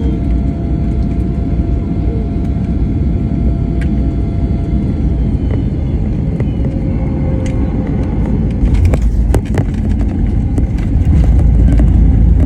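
Airliner cabin noise after landing: a steady low rumble with a thin engine whine over the first few seconds, and a scatter of clicks and rattles after about eight seconds. It gets a little louder near the end.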